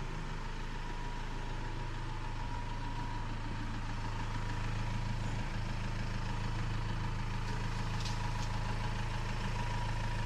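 A vehicle engine idling steadily: an even low hum with a faint steady high tone above it.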